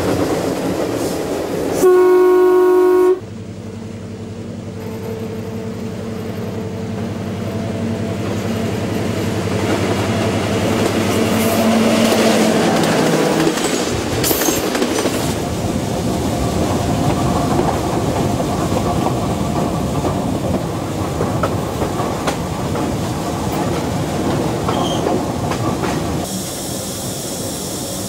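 Diesel locomotive horn sounds one blast of about a second near the start. Then comes the train running past: engine hum and wheels clattering on the rails, growing louder toward the middle.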